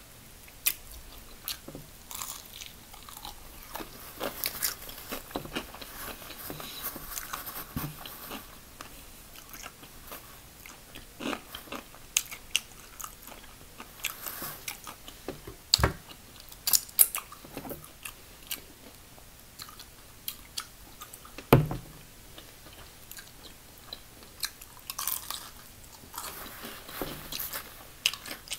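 Bites and chewing of crispy fried chicken wings, the breaded coating crunching in irregular sharp snaps between quieter chewing, with the loudest crunches a little past the middle.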